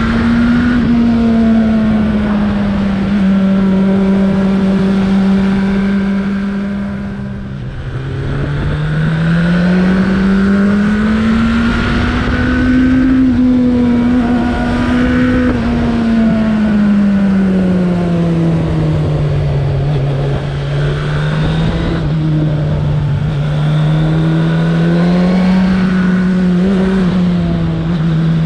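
Suzuki Bandit 1200's inline-four engine under way, its note rising and falling with the throttle over a steady rush of wind noise. About seven seconds in, the pitch drops suddenly with a brief dip in level, like a gear change, then climbs again.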